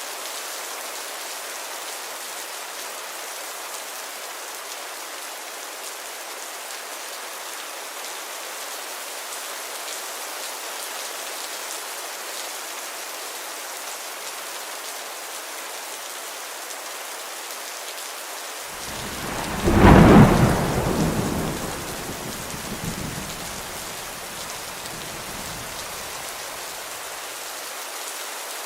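Steady rain hissing throughout. About two-thirds of the way in, a loud crack of thunder breaks in. It rolls on in a low rumble with a second, smaller swell and dies away over several seconds.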